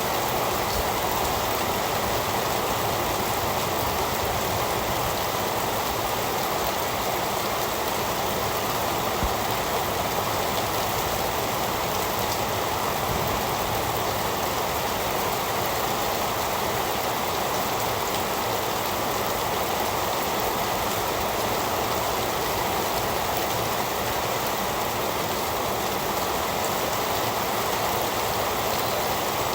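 Heavy rain falling steadily, a dense even hiss with no distinct drops or thunder standing out.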